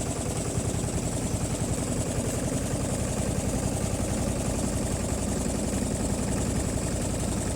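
Motorboat engine running steadily, a fast even chug.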